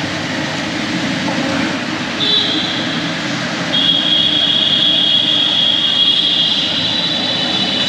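Steady road and engine noise from a motorcycle being ridden. A high-pitched steady tone sounds briefly about two seconds in, then returns near the four-second mark and holds for about four seconds.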